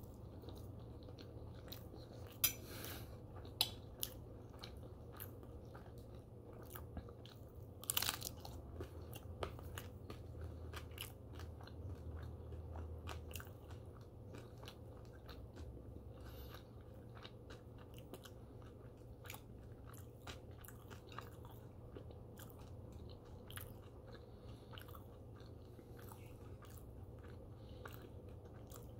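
A person chewing a forkful of French toast close to the microphone, with crisp crunches and wet mouth clicks; the sharpest crunches come in the first eight seconds, then steady smaller chewing clicks.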